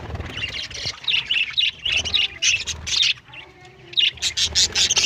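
Budgerigars chirping and chattering in rapid, high, scratchy calls, coming in bunches with a brief lull about three seconds in.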